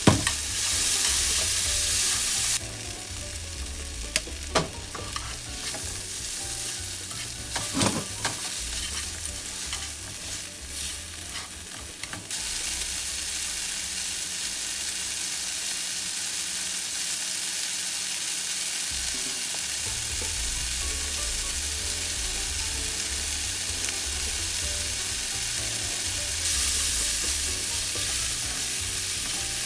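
Food sizzling in a frying pan as shirataki noodles, beef and vegetables are stir-fried for japchae, with a few sharp knocks of the stirring utensil against the pan.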